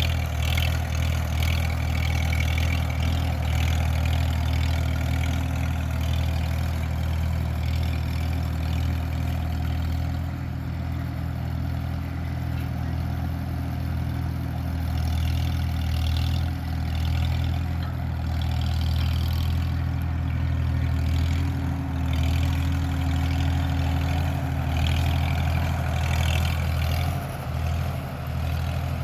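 1949 Farmall H tractor's four-cylinder engine running steadily, its level dipping slightly now and then.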